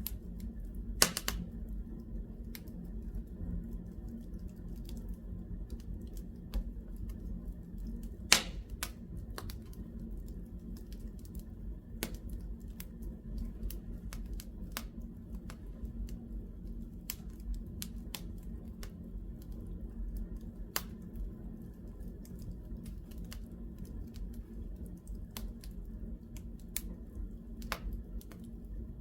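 Wood fire in a fireplace crackling, with sharp pops at irregular intervals over a steady low background. The loudest pops come about a second in and just after eight seconds in.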